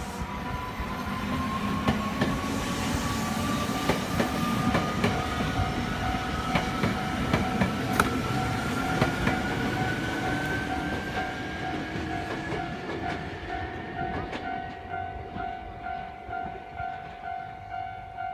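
Nagano Electric Railway electric train pulling away, its motor whine rising steadily in pitch as it gathers speed, with wheels clicking over rail joints. A level-crossing warning bell rings in a steady pulsing beat and stands out near the end as the train fades.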